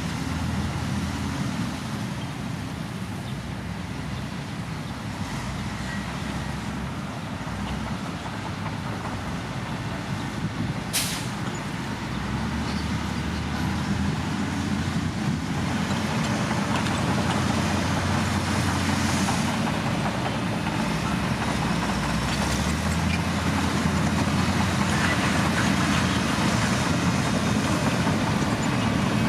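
Heavy diesel construction machinery running steadily, its engine growing louder from about halfway. About eleven seconds in there is one brief sharp hiss.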